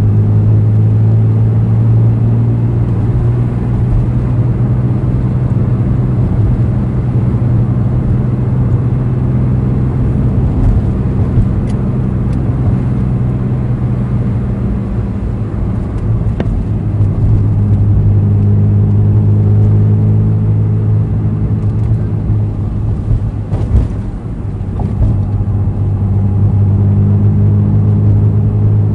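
Honda NSX NA1's V6 engine running steadily through its all-titanium exhaust, holding an even low engine note that eases slightly midway and strengthens again.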